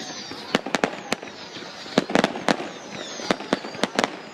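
Aerial fireworks going off in a rapid, uneven series of sharp bangs, clustered around the middle and near the end, with high whistles falling in pitch between them.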